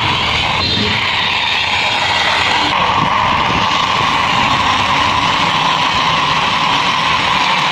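Plastic toy vehicle's wheels rolling steadily along a rough concrete wall as it is pushed by hand, a continuous rolling noise.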